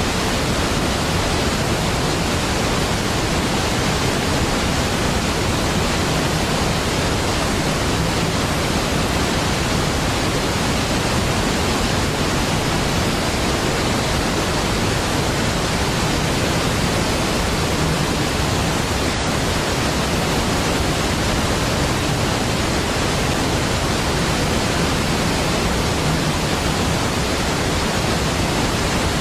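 Steady roar of a large waterfall, Niagara Falls, water pouring down in an even, unchanging rush of noise.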